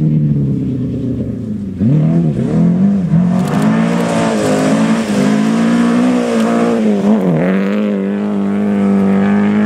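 Rally car engine at high revs. Its pitch climbs steeply about two seconds in, then dips sharply and climbs back several times, as with gear changes or throttle lifts.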